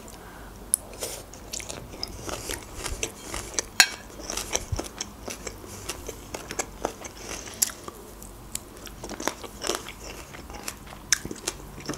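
Close-up chewing of crunchy raw vegetable salad with shredded red cabbage: many small, irregular crisp crunches and wet mouth sounds.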